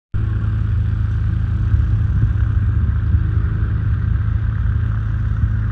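An engine running steadily with a low drone, cutting in abruptly at the start.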